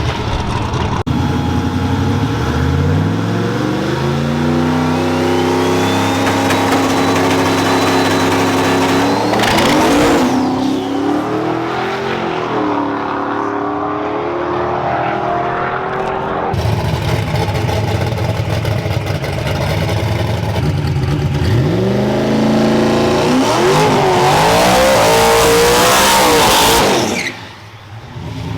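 Drag-racing truck engines at full throttle, pitch climbing hard as they accelerate down the strip, with a high whine rising over the engine note. A second hard pull starts about two-thirds of the way in and drops away sharply near the end.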